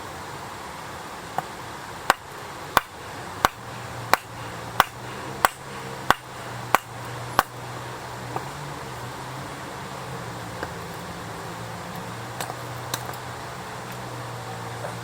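A run of about nine sharp knocks, evenly spaced at roughly one and a half a second, stopping after about five seconds, over a steady background hiss. A few fainter single clicks follow.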